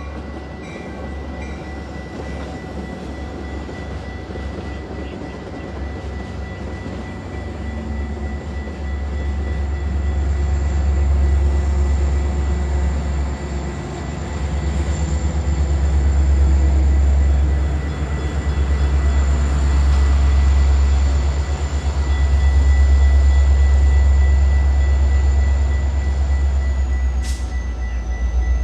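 Metra bilevel commuter train rumbling past a grade crossing as it pulls in. The deep rumble swells louder over the second half, with faint steady high tones above it.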